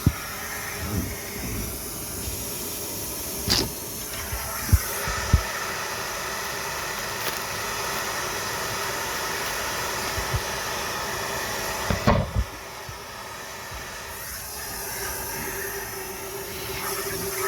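Car wash vacuum cleaner running with a steady rush of air through the nozzle, broken by short knocks as pieces of trash are sucked up the hose. About twelve seconds in, a louder knock comes and the hissing top of the sound drops away for a couple of seconds.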